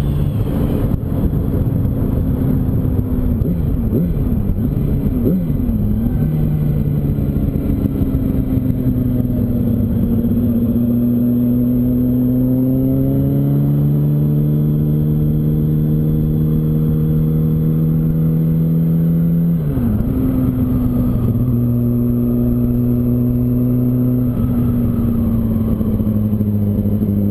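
Yamaha R1's inline-four engine running while riding, with low wind rush. Its pitch climbs slowly in the middle, drops suddenly about twenty seconds in as the throttle is rolled off or a gear is changed, then holds steady again.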